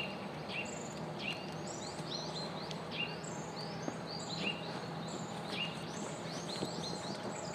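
Small birds chirping: short high calls, one or two a second, over a steady background hiss.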